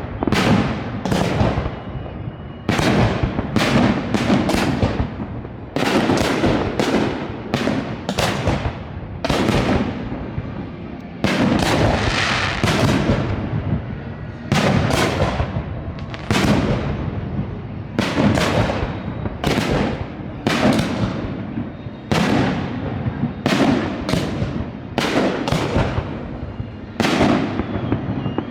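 Aerial fireworks display: firework shells bursting in a rapid series of loud bangs, often two or three close together, each with a fading echoing tail.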